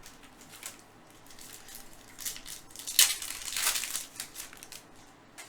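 Trading-card pack wrapper crinkling and cards rustling as they are handled, loudest in a burst about three seconds in.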